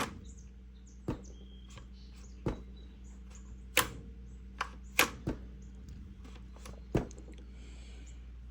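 A series of about eight sharp clicks and knocks at irregular intervals, louder around the middle, over a faint steady low hum.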